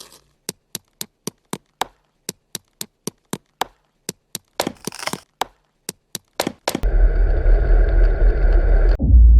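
A run of sharp, separate clicks, about three to four a second with dead silence between them. About seven seconds in they give way to loud, low wind buffeting the microphone.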